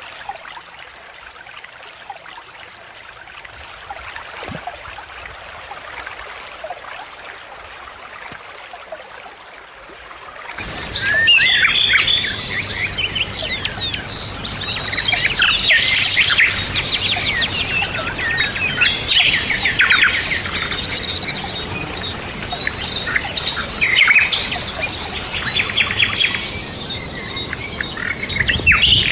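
Outdoor birdsong: faint and sparse at first, then about a third of the way in it jumps suddenly to a loud chorus of many birds chirping and twittering, with a steady high-pitched trill running underneath.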